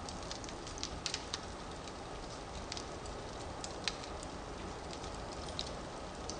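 Firewood burning in a fireplace: steady low rushing with irregular sharp crackles and pops, the loudest about four seconds in.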